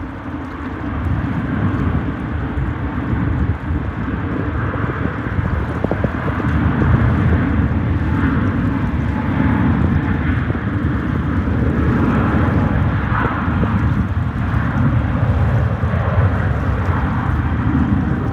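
Jet airliner engine noise: a loud, steady rumble that grows a little about seven seconds in and holds.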